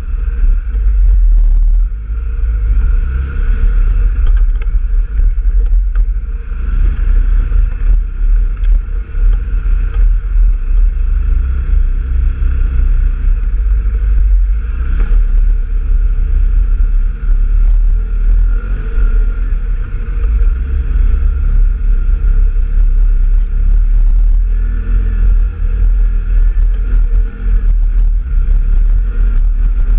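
Off-road vehicle engine running steadily while riding a trail, with wind rumbling heavily on the microphone.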